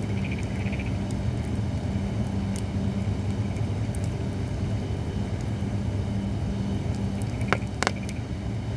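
Holly firewood burning with occasional crackles, two sharp pops coming close together near the end, over a steady low hum.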